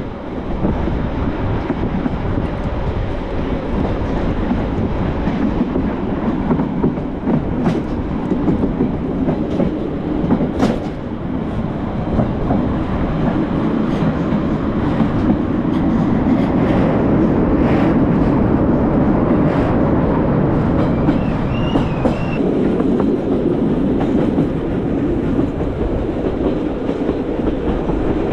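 Metre-gauge train running along the track: a steady rumble of wheels on rail with scattered sharp clicks over rail joints. A short, wavering high wheel squeal comes about three-quarters of the way through.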